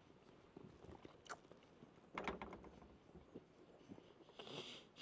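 Faint mouth sounds of a person biting and chewing chicken, with a few soft clicks and short bursts and a brief hiss near the end.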